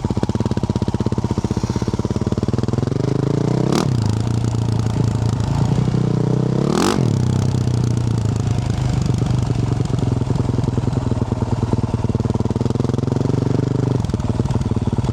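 2024 Yamaha YZ450F's single-cylinder four-stroke engine through a Yoshimura RS-12 exhaust, running at low revs and blipped sharply twice, about four and seven seconds in.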